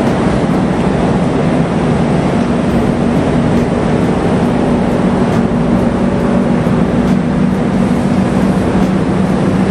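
Steady loud hum and rumble of a passenger train standing at the platform with its machinery running, a constant low drone under a wide noise.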